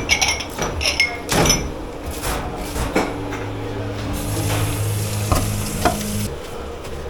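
Dishes and cutlery clinking and knocking, with several ringing clinks in the first second and a half. Then a steady hiss with a low hum starts about four seconds in and stops abruptly a couple of seconds later.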